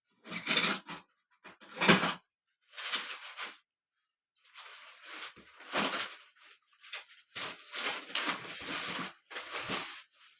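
Handling noise from a battery-powered bird wall clock being fiddled with: irregular knocks, scrapes and rustles in short bursts, with no bird calls playing yet.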